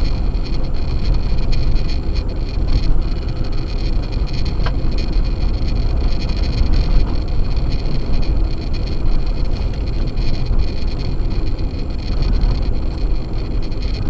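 Steady driving noise of an Acura MDX on a snow-covered road: Sumitomo Ice Edge winter tyres and running gear, with a constant low rumble.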